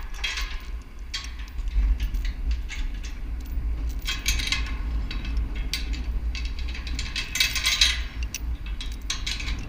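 Bursts of metal clinking and rattling, four or so, over a steady low rumble.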